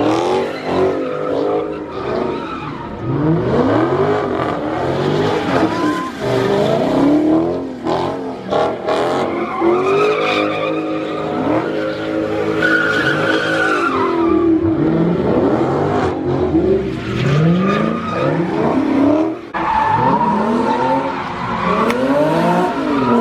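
Car engines revving hard, their pitch rising and falling again and again, with tyres squealing and skidding.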